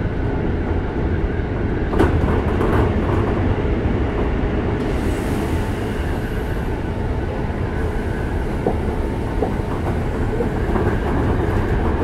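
Steady running noise inside a Keikyu 600 series electric train car at speed: a low rumble of the wheels on the rails, with a sharp knock about two seconds in.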